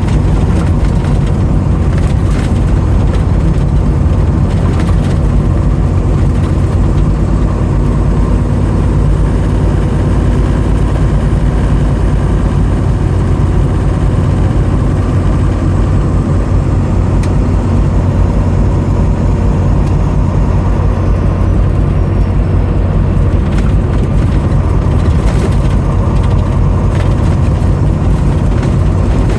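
A motor vehicle running steadily: a loud, unbroken low drone.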